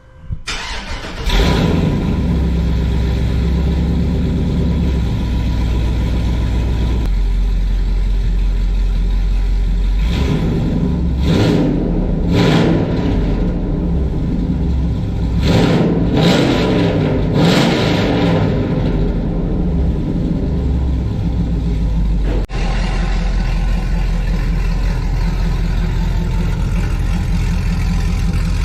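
LS-swapped 6.0-liter V8 in an OBS Chevy truck, breathing through a new 3-inch stainless Corsa exhaust with X-pipe: it starts about a second in and settles into a steady idle. Around the middle it is revved in several quick blips, then drops back to idle.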